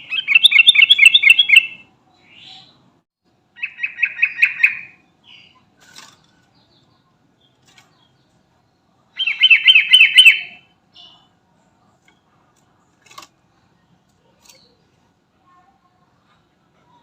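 Sooty-headed bulbul (trucukan) singing: three bursts of fast, evenly repeated chattering notes, one at the start, one about four seconds in and one about nine seconds in, with a few faint short calls between.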